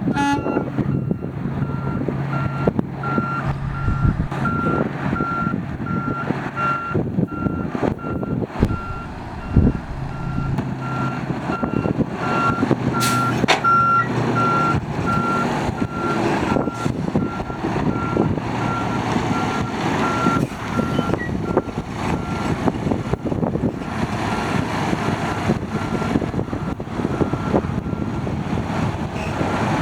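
Truck reversing alarm beeping about twice a second over a running diesel truck engine; the beeping grows fainter after about twenty seconds.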